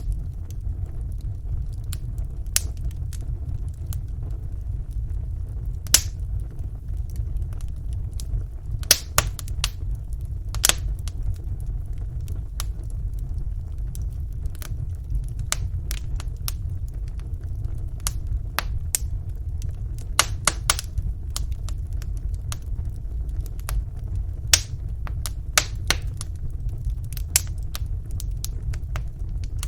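Wood fire burning in a fireplace: a steady low rumble of the flames with frequent, irregular sharp crackles and pops of the burning logs.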